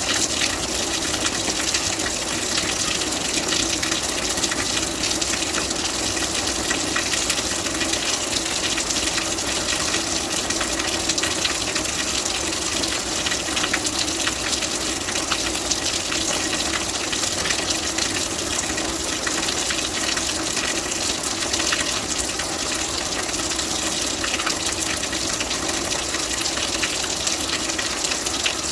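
Steady rain, a dense, even hiss of falling drops with no breaks or changes.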